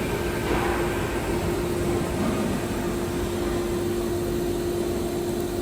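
CNC processing centre running steadily: a constant whine over a hiss of machine and air noise.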